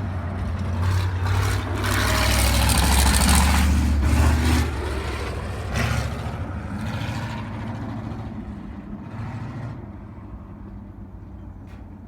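Sprint car's V8 engine running just after a push start, growing louder for the first few seconds, then fading away through the rest.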